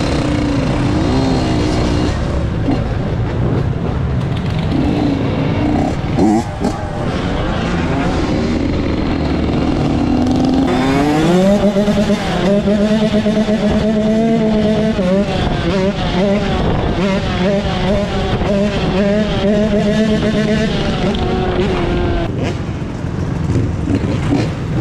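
Dirt bike engine running, its pitch climbing sharply about ten seconds in and held high for about ten seconds, then dropping back near the end.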